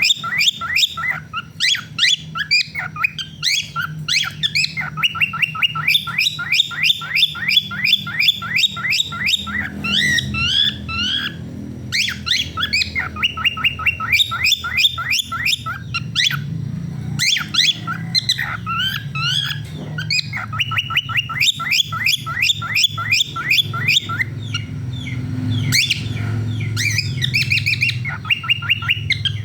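Male cockatiel singing busily: long runs of rapid, high chirps and squawky warbled notes in phrases of a few seconds with short breaks. A steady low hum runs underneath.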